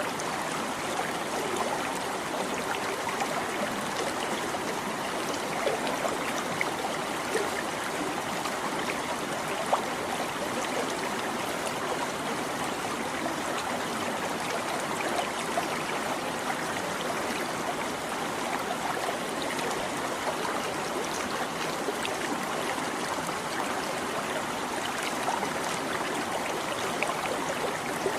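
Shallow stream babbling steadily over rocks, with small splashes and trickles throughout.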